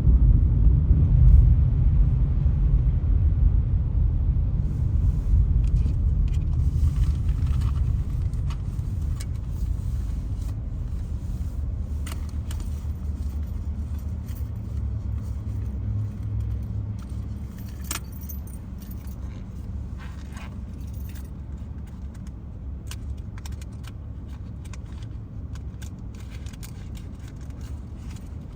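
Car driving: a low road rumble that fades steadily, with light jingling clicks from about five seconds in.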